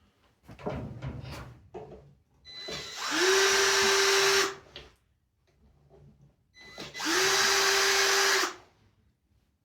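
Power drill fitted with a 1/4-inch driver attachment, run twice for about a second and a half each to back out the screws of an engine's points cover, with a few light clicks of handling before.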